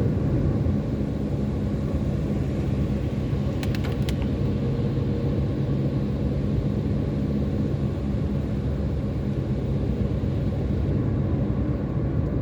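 Steady low drone of road and engine noise heard from inside a moving car, with a brief cluster of clicks about four seconds in.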